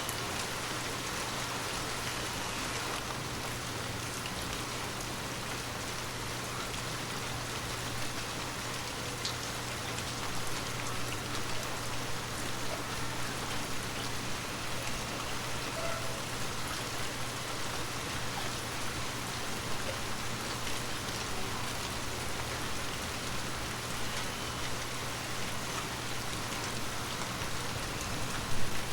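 Heavy rain falling steadily, with scattered drops ticking through the hiss. One sharper, louder drop or tap comes near the end.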